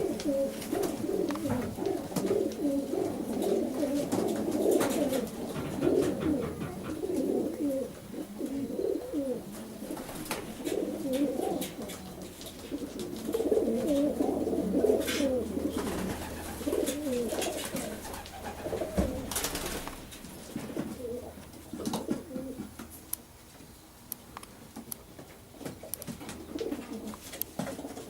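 Racing pigeons cooing, several birds overlapping continuously, with a few sharp taps among them; the cooing grows sparser over the last few seconds.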